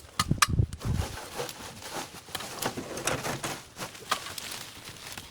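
Irregular snapping, cracking and rustling of brush and vines being cleared by hand, with a few heavier thumps in the first second.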